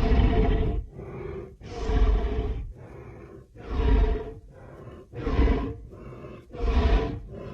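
Creature sound effect of a giant prehistoric bear: a run of loud, deep bear-like roars, about one every second and a half, with a quieter growling rumble between them.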